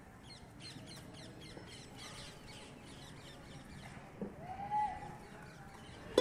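Faint outdoor ambience of birds chirping in quick, repeated short notes, with a louder drawn-out call that rises and falls about four and a half seconds in.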